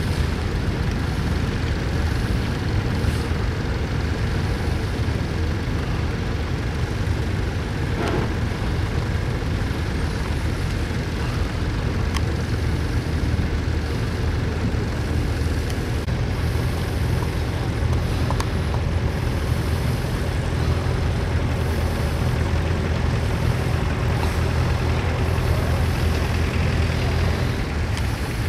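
Vintage tractor engine running steadily, a continuous low engine hum with no change in pace.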